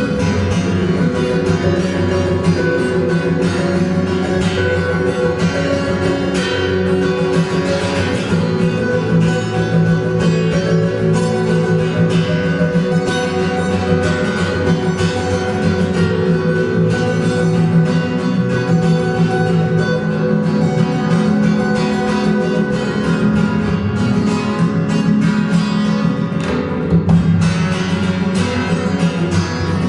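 Acoustic guitar music, plucked and strummed, playing without a break.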